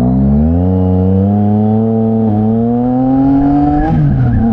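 Yamaha MT-09 SP's three-cylinder engine through a Mivv X-M50 straight-through exhaust, pulling hard under acceleration: the loud exhaust note climbs steadily in pitch for about three seconds, then falls away sharply near the end as the revs drop.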